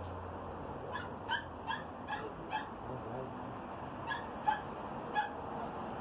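A dog giving short, high yips: five in quick succession, then three more after a short pause.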